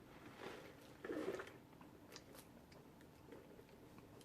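Faint chewing of a rotisserie chicken sub sandwich, with a few small mouth clicks; a slightly louder chew about a second in.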